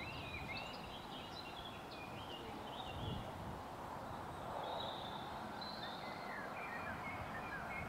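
Small birds chirping in quick, short calls over a steady outdoor hiss and a low, uneven rumble. The chirps come in a cluster at the start and again in the second half.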